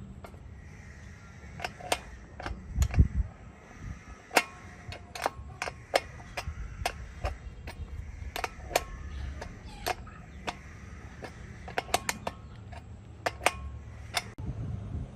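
Irregular sharp clicks and knocks, often several in quick succession, with a louder low thump about three seconds in: bicycle parts and tools being handled in the workshop.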